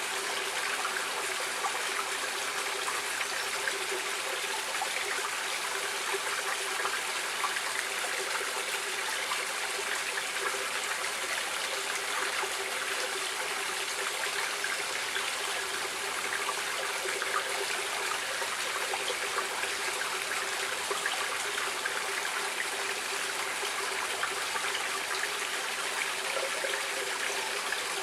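Stream water flowing and trickling, an even, steady rush.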